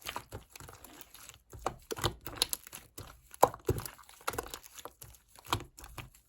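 Purple slime being squeezed and worked by hand, giving irregular crackling and clicking pops.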